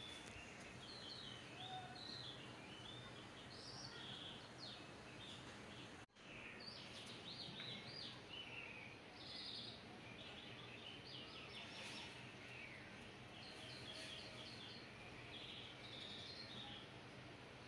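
Faint bird chirping: many short, high chirps in irregular runs over a low steady hum. The sound drops out for an instant about six seconds in.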